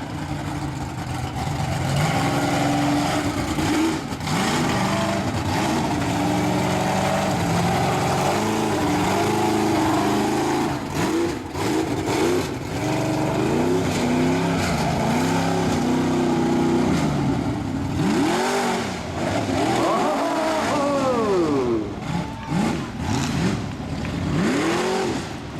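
Mega truck's engine at full show revs, held high with stepping changes in pitch, then revved up and down again and again in quick swoops in the second half.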